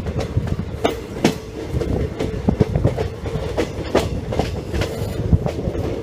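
Passenger express train running, heard from on board: wheels clattering over the rails with irregular sharp clicks and knocks over a steady rumble and a faint steady hum.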